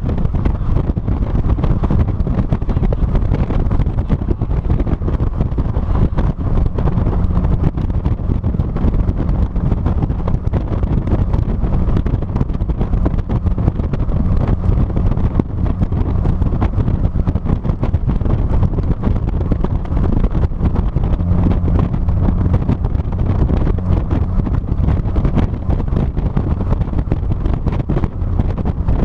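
Heavy wind buffeting the microphone of a trunk-mounted camera on a moving 2006 Mazda NC Miata, with a low steady hum of the car's running underneath.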